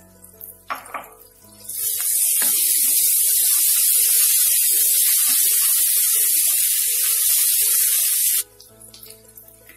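Hot oil sizzling loudly in a steel kadai as fresh curry leaves, coriander and mint are stirred into frying onions. The steady hiss starts about two seconds in and cuts off abruptly near the end.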